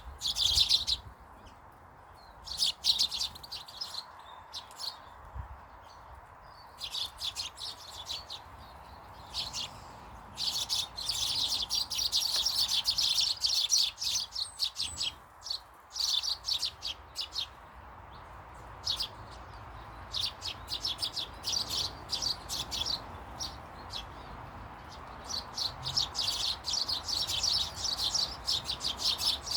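Small garden birds chirping in quick runs of short, high notes, coming in clusters, busiest about a third of the way in and again through the last third.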